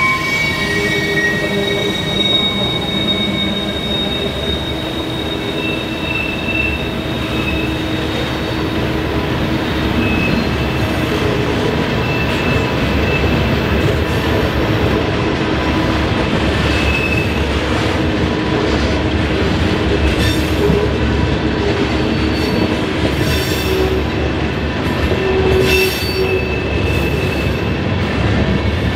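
Railroad cars rolling past on the rails, with wheel squeal in thin high tones that come and go over the steady rumble of the wheels.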